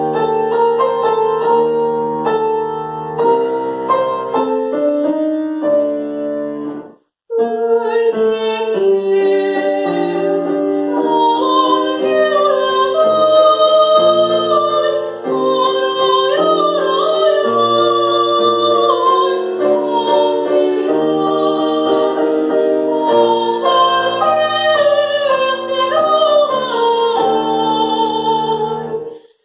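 A woman singing a classical aria or romance with piano accompaniment. The piano plays alone at first and breaks off briefly about seven seconds in, then she sings with vibrato over the piano.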